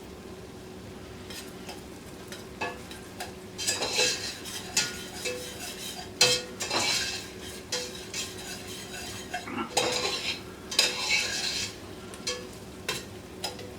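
A utensil scraping and stirring vegetables sautéing in butter in a pot, in irregular strokes, the strongest about four, seven and ten seconds in, over a soft steady sizzle.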